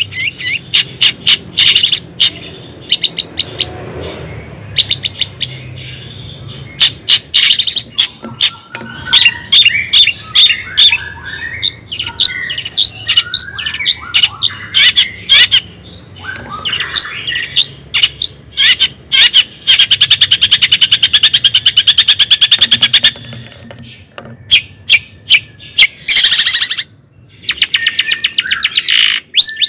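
A bird calling in many short, sharp chirps and squawks, with a fast, even trill lasting a few seconds about twenty seconds in.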